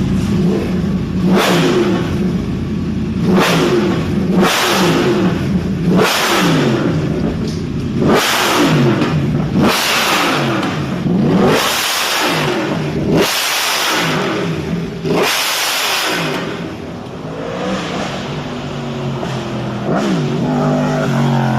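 High-powered motorcycle engine revved repeatedly: about nine sharp throttle blips, each rising and falling in pitch, then settling to lower revs near the end.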